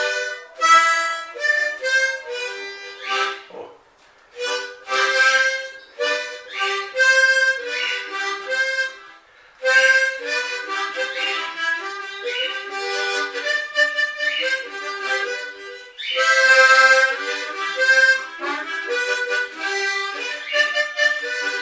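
Solo harmonica playing a melody in short phrases, often sounding several reeds together as chords, with brief pauses between phrases.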